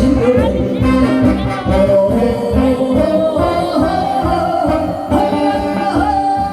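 A singer performs a Korean trot song live over a backing band track with a steady beat. A long, wavering note is held in the middle.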